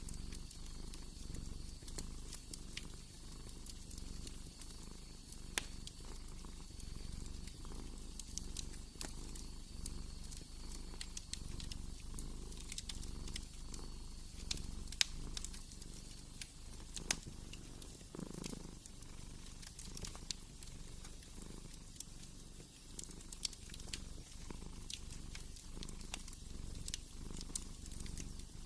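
Cat purring steadily with a low, pulsing rumble, over the scattered sharp pops and crackles of a wood fire.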